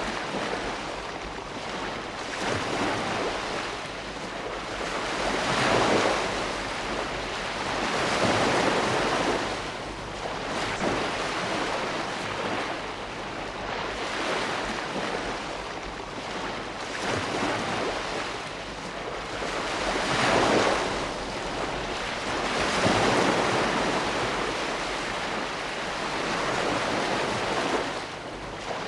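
Ocean waves rolling in and washing on the shore, a steady rush of surf that swells into louder surges every few seconds and then ebbs.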